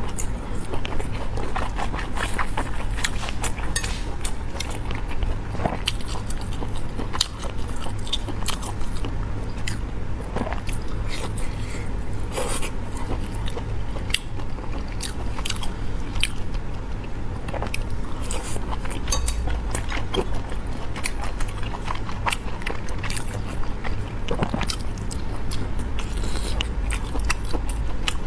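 Close-miked eating through a clip-on microphone: a woman biting and chewing food in her mouth, with many sharp wet clicks and smacks, over a steady low hum.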